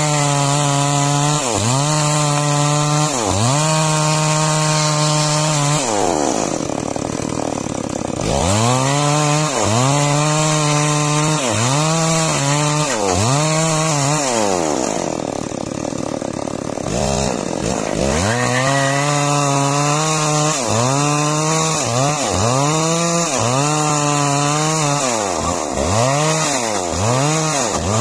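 Chainsaw sawing timber, its engine revs repeatedly sagging and climbing back about once a second, with two longer drops to lower speed along the way.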